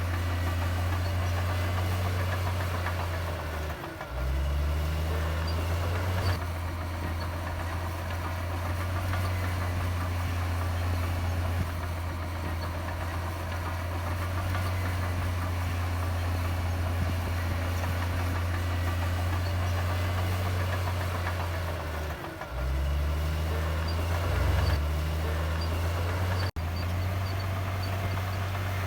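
Heavy diesel earthmoving engine running steadily. Its note dips twice, about four seconds in and again near the end, then climbs back up as it comes back on the throttle.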